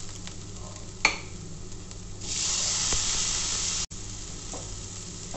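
Chopped onions frying in oil in a nonstick pan, a soft sizzle with a single tap about a second in. About two seconds in, a much louder sizzling hiss starts as chopped tomato goes into the hot oil, and cuts off suddenly after about a second and a half.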